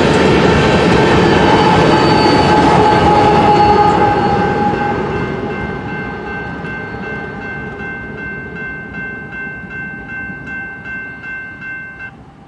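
BNSF freight train rumbling past on the rails and fading away. Later a steady ringing tone pulses about twice a second, then stops abruptly just before the end.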